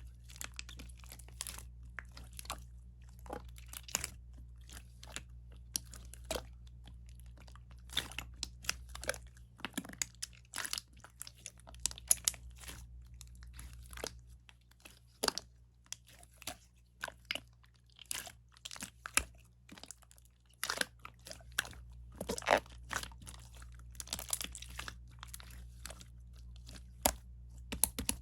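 Clear slime being squeezed and pressed by hand, making irregular sharp clicks and crackly pops, over a low steady hum.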